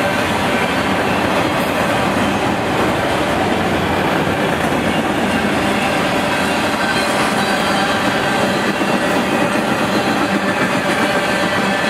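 Empty autorack freight cars rolling past close by: a steady, loud noise of steel wheels running on the rails.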